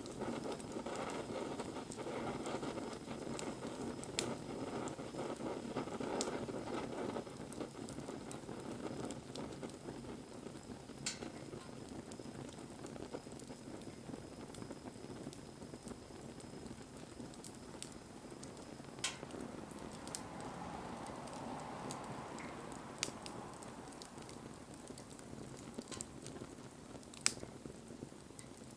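Wood campfire burning: a steady low rustling hiss with scattered sharp crackles and pops, the loudest pop near the end.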